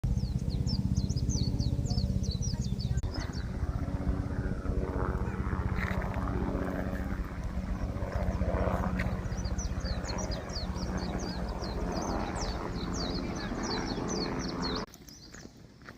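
An engine running with a steady low hum that cuts off suddenly near the end, with rapid high chirps laid over it in two spells.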